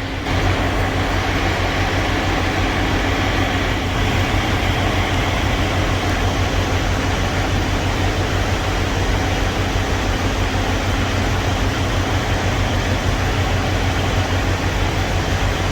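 Semi truck's diesel engine idling steadily, a constant low hum with a noisy rush over it.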